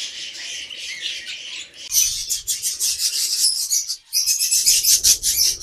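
A flock of budgies chattering, a dense run of rapid high chirps and warbles; the chatter thickens about two seconds in and pauses briefly near four seconds before starting again.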